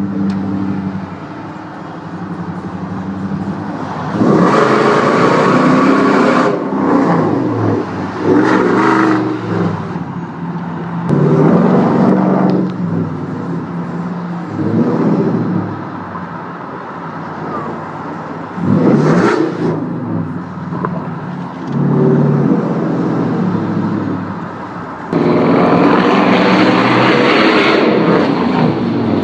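2007 Toyota Tundra engine through JBA long-tube headers and a Flowmaster exhaust, idling and then revved in about seven short blips, the last one held for several seconds near the end.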